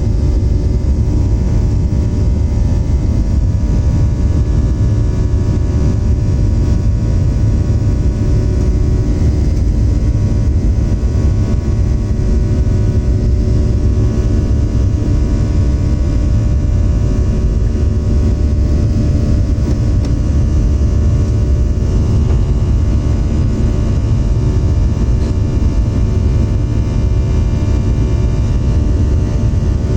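Steady drone of a Boeing 737-700's CFM56-7B jet engines and airflow inside the passenger cabin: a loud low rumble with steady engine tones that hold without rising or falling.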